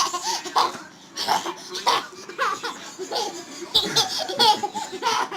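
A young child laughing, over and over in short bursts.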